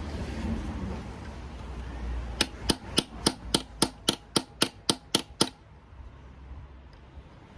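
A hammer tapping a socket to drive a replacement sealing plug into the engine: about a dozen quick, sharp blows at roughly four a second, starting a couple of seconds in and stopping shortly after the middle.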